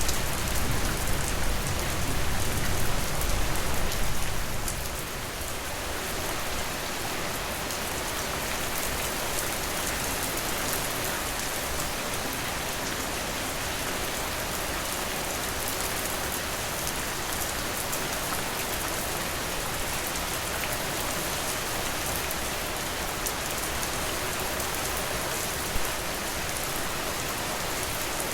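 Steady rain falling, with a deeper low rumble for the first four seconds or so that then fades away. One sharp tap stands out near the end.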